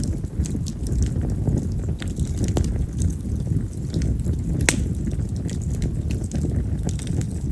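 Split wild cherry (yamazakura) firewood burning in an open campfire: a steady low rush of flame with scattered sharp crackles and pops, one louder pop about four and a half seconds in.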